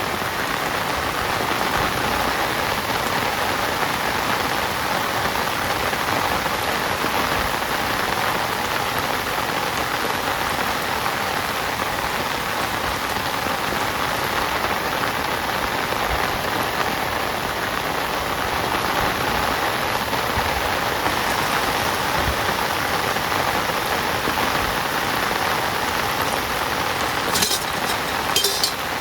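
Heavy rain falling steadily, a dense even hiss of drops, with two short sharp knocks about a second apart near the end.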